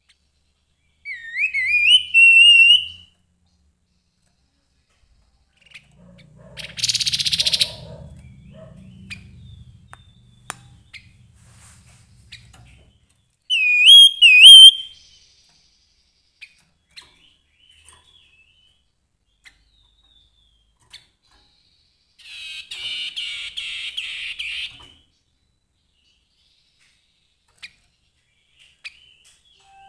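Grey-headed babbler singing two short whistled phrases that rise in pitch, about twelve seconds apart, the second the loudest. Between them comes a brief noisy rustle, and later a harsh buzzy chatter lasting about three seconds.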